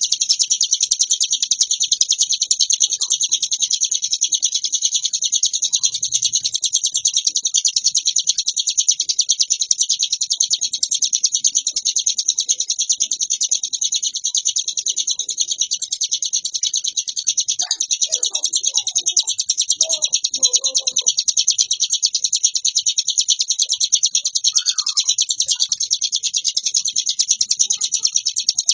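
Ciblek gunung, a mountain prinia, singing its nonstop 'ngebren' song: a high-pitched, very rapid trill of repeated notes without a break.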